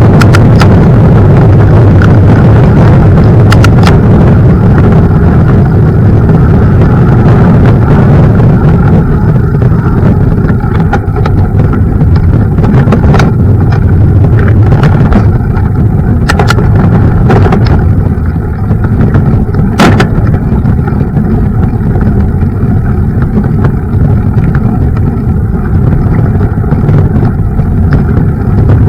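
Mountain bike riding over a rough path: a loud, steady low rumble with scattered sharp knocks and rattles.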